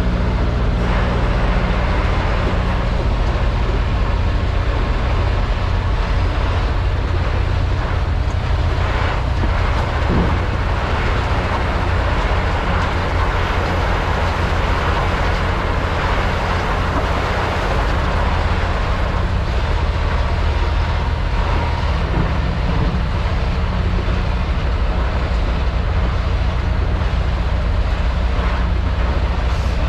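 Semi truck's diesel engine and road noise: a steady, unbroken drone while driving.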